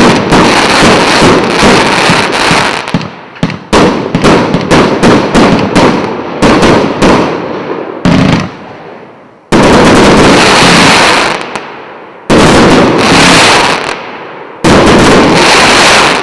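A 123-shot, 1.25-inch fireworks cake firing: a dense run of sharp bangs for the first several seconds, then three separate stretches of continuous loud noise about two seconds each, with short gaps between them.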